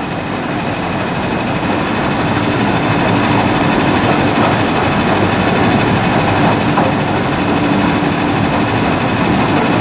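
A 12-car East Rail line electric train, a Metro-Cammell EMU, pulls into the platform. Its rolling and motor noise grows louder over the first few seconds and then holds steady, with a steady hum running through it.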